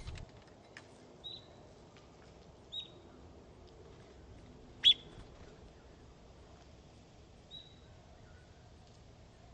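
Bird giving short, high chirp notes, four of them a couple of seconds apart; the third, about five seconds in, is much the loudest and sharpest.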